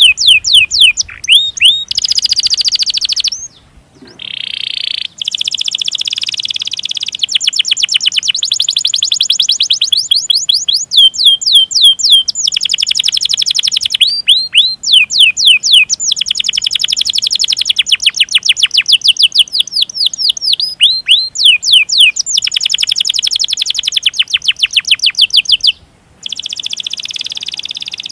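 Domestic canary singing. Long, fast rolled trills alternate with series of sharp, downward-slurred chirps, broken by two short gaps.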